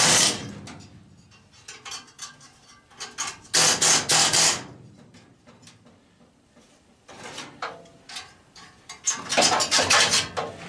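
Pneumatic air chisel hammering at the furnace's sheet-metal cabinet in three short bursts of rapid clatter, to break through the last uncut bit, with metal clinks and knocks between bursts.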